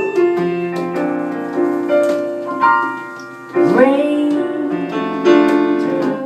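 Piano chords of a slow ballad played between sung lines, with a voice gliding up into a briefly held note about halfway through.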